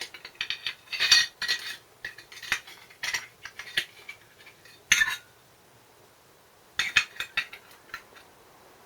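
Hand tools and small metal engine parts clinking and knocking as they are handled and set down, in irregular clusters of sharp clinks with a short ring, and a pause of about a second and a half in the middle.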